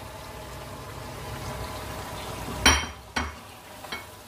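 Kachnar buds tipped into a pan of sizzling meat-and-tomato masala and stirred in with a wooden spoon, a steady sizzle under the stirring. A sharp clack about two and a half seconds in, the loudest sound, and a smaller one just after.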